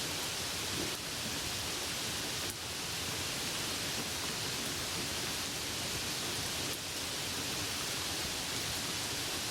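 Steady rain falling as a dense, even hiss.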